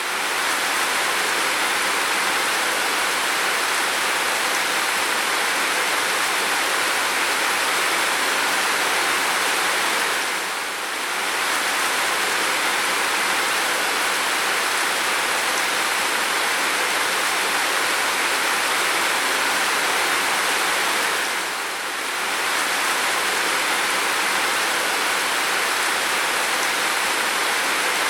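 Heavy rain falling steadily, an even hiss, dipping briefly in level about every eleven seconds.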